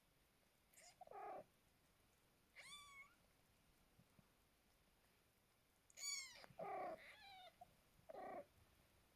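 Newborn kittens mewing: about six short, high-pitched cries in three bunches, some shriller than others.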